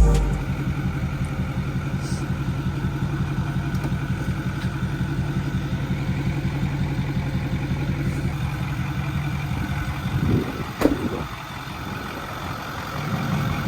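A vehicle engine idling with a steady, even pulse, with a couple of brief knocks about ten seconds in, after which it runs quieter.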